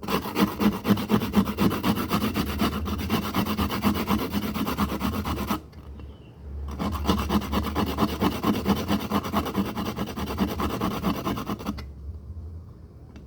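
Fast, repeated scraping strokes in two runs of about five seconds each, with a pause of about a second between them.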